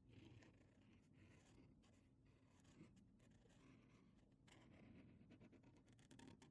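Faint scratching of a drawing tool on paper, stroke after stroke, with a run of quick short strokes near the end.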